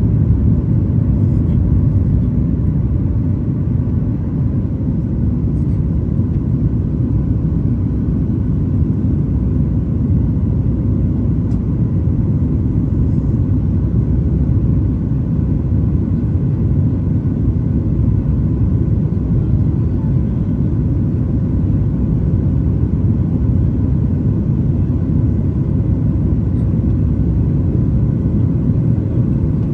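Steady low rumble inside the cabin of a Boeing 737 MAX 9 climbing after takeoff: its CFM LEAP-1B turbofans and the airflow over the fuselage, with faint steady tones above the rumble.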